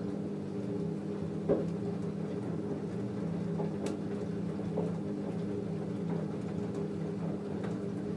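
LG F10A8HDS5 front-loading washing machine in the wash phase of a cotton cycle: a steady motor hum as the drum turns the wet load, with occasional soft knocks, a louder knock about one and a half seconds in and a sharp click about four seconds in.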